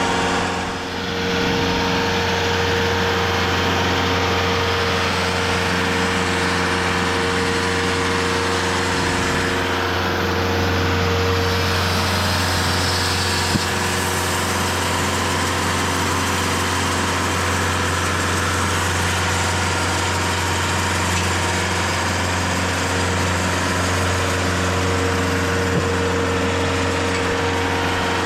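TimberKing 2520 portable band sawmill running steadily, its engine driving the band blade through a log to cut a one-inch board.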